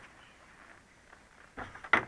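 Faint background, then two sharp knocks close together near the end, the second one the loudest.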